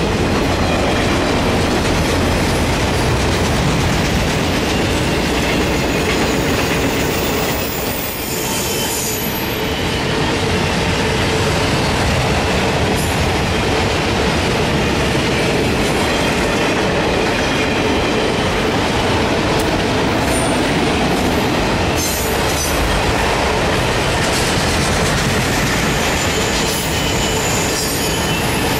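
Autorack freight cars rolling past at speed: the steady rumble and clatter of steel wheels on rail, with thin high wheel squeals rising now and then.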